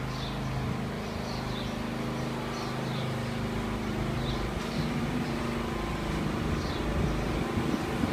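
A steady engine or motor hum, with small birds chirping briefly now and then.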